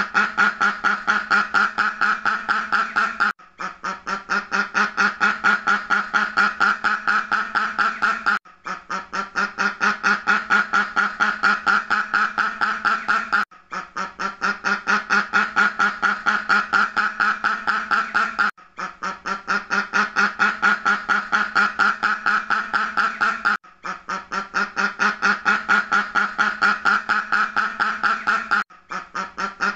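Duck quacking in a rapid run of quacks, about five a second. The sound is a loop that breaks off briefly about every five seconds, and each run starts quieter and builds back to full level.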